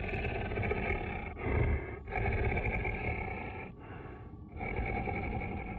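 Deep animal growls in several long stretches, one after another with short breaks between them.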